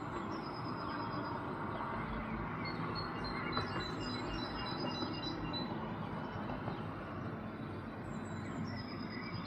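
Small birds calling in series of short, repeated high notes over a steady low background rumble.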